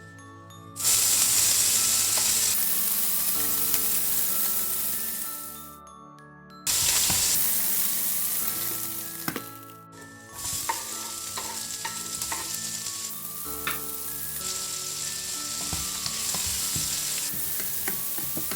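Food frying in hot oil in a pan, sizzling loudly, with the clicks of a spatula stirring. The sizzle starts abruptly about a second in, drops away around six seconds, and starts again abruptly, then carries on a little quieter.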